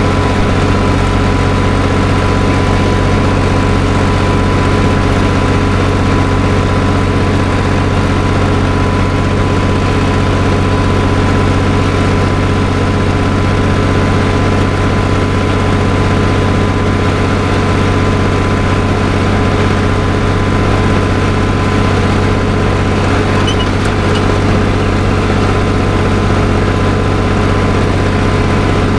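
Farm tractor's diesel engine running steadily at a constant speed, a loud, unchanging drone.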